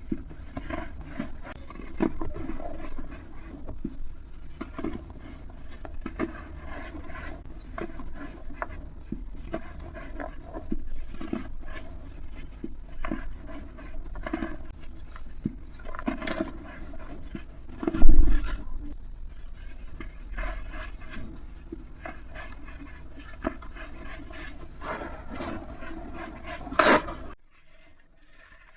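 Dry, brittle material being crumbled and rubbed: a continuous irregular run of crackles, scrapes and small snaps, with one louder crunch about two-thirds of the way through. It cuts off abruptly near the end.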